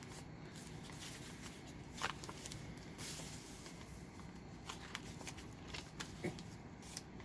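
Soft rustling and light scattered taps of paper and card as the pages and pockets of a handmade journal are turned and handled.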